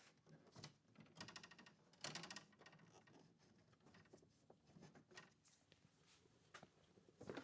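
Faint handling noises from wiring work: light clicks and rustles, with two short fast runs of clicking about one and two seconds in.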